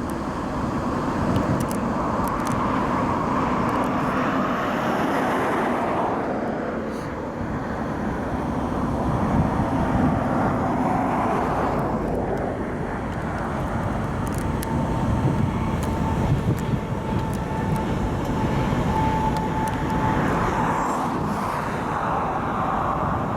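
Union Pacific freight train rolling past, a steady heavy rumble of wheels and cars on the rails. A thin steady whine, typical of wheel squeal, rises out of it for several seconds in the second half.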